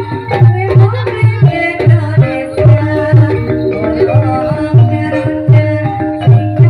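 Banyumasan gending ebeg music: a deep hand drum beating about twice a second under held melodic lines of the accompanying ensemble.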